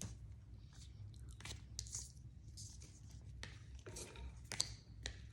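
Faint, irregular crunching and clicking: an African grey parrot chewing a treat with its beak.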